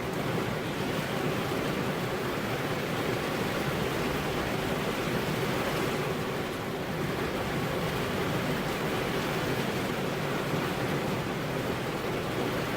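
Steady rain falling on a car's windows, an even rushing noise with no breaks.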